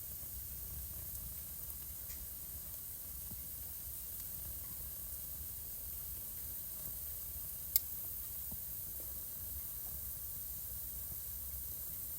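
Wood fire burning in a fireplace: a steady soft hiss with sparse crackles, one faint pop about two seconds in and one sharp, loud pop a little before the eight-second mark.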